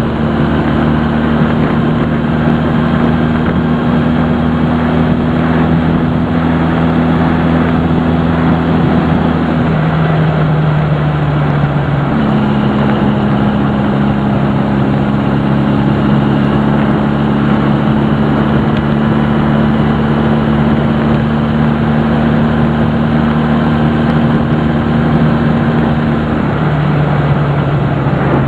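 Honda CD175 twin-cylinder motorcycle engine running at steady road speed under heavy wind and road rush. Its pitch drops about a third of the way in, rises again a couple of seconds later, and drops again near the end.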